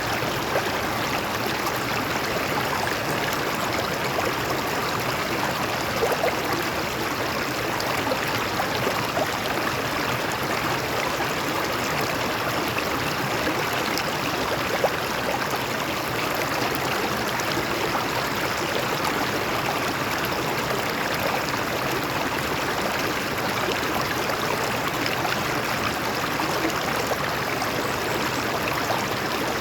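A stream of water flowing and splashing over rocks, a steady rush with small gurgles and splashes throughout.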